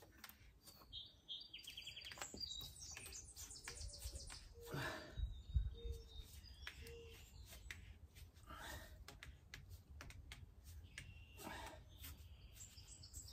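Faint birds chirping, with a short rapid trill a couple of seconds in. A few brief low vocal sounds of a man straining come in between.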